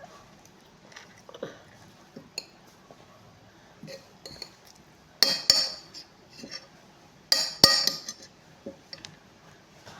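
Eating a chicken meal close to the microphone: scattered small clicks and clinks of utensils and dishes, with two louder clattering, crackly bursts about five and seven and a half seconds in.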